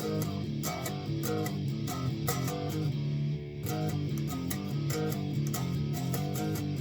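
Guitar played with palm muting: a steady picked rhythm of deadened, chugging notes that shifts between chord positions.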